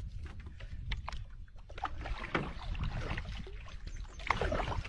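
Sounds aboard a fishing kayak on the water: scattered small knocks and clicks with water sounds over a steady low rumble.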